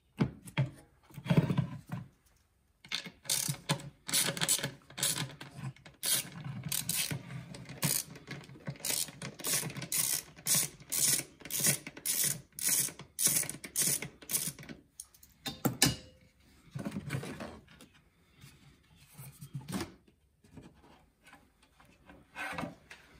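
Ratcheting tool clicking in quick, even strokes, about two a second, as Torx screws are backed out of an air filter housing cover. There are a few more strokes after a short break, and again near the end.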